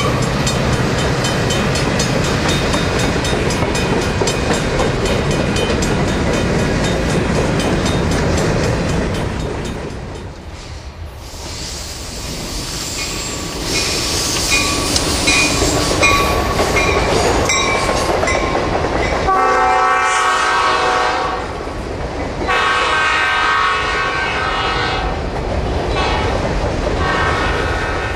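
Reading & Northern SD-50 diesel locomotive passing, its wheels clattering over rail joints. Then its Nathan air horn sounds two long chords in the second half, the second one longer.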